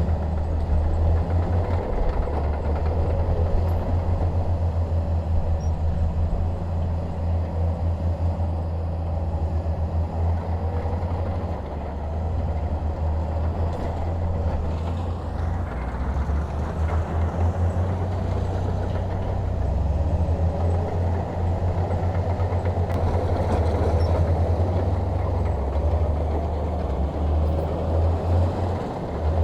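Diesel bulldozer engine running steadily under working load, its level rising and falling a little.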